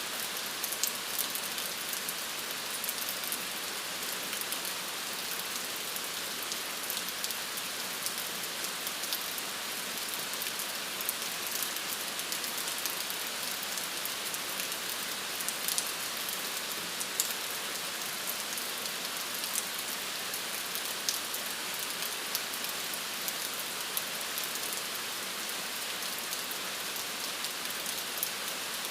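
Steady rain falling, a continuous hiss with many small sharp drop ticks scattered through it.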